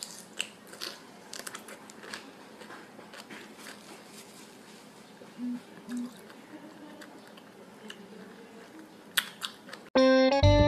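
A person biting into and chewing a raw lemon wedge: small wet clicks and crunches, with two brief low hums a little past the middle. About ten seconds in, loud keyboard music cuts in abruptly.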